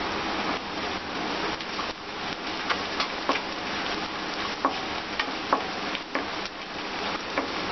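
Sliced onions, garlic and whole spices sizzling in hot oil in a wok, stirred with a wooden spatula that scrapes and knocks against the pan in scattered clicks.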